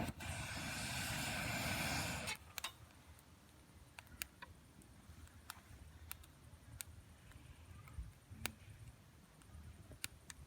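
Campfire: a rushing noise for the first two seconds, then scattered sharp crackles and pops from the burning wood at irregular intervals.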